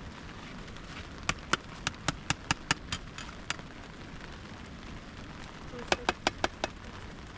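Two quick runs of sharp taps or knocks, about five a second, the first of about nine taps and the second of five, over a steady hiss of rain.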